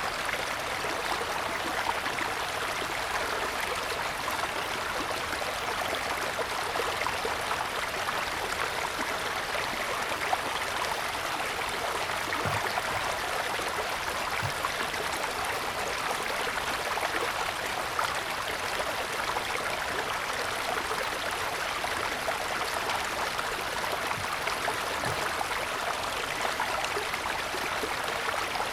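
A forest stream running steadily, its water rushing and babbling, with a few faint low gurgling plops.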